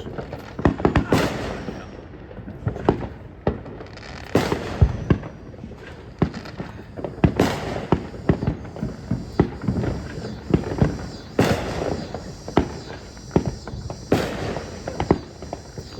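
Consumer fireworks going off: a steady run of sharp bangs and crackles, with louder booms every few seconds that trail off.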